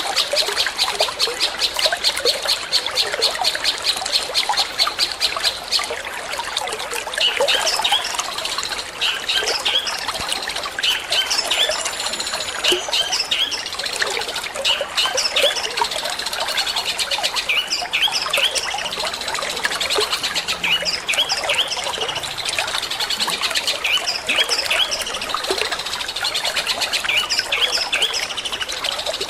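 Long-tailed shrike song in the fast 'petir' style: a rapid run of repeated high notes for the first six seconds or so, then varied quick chirps. Under it, the steady trickle of running water.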